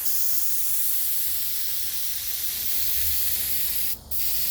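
Compressed-air paint spray gun hissing steadily as it sprays paint onto the boat hull, with a brief break about four seconds in when the trigger is let off and pulled again.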